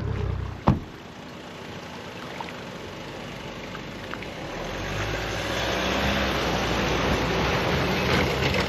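A sharp knock, then a small boat's outboard motor running. The motor builds up with a rising rush of water and wind noise from about halfway through.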